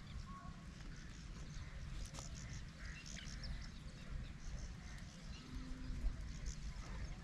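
Scattered short bird calls over an uneven low rumble.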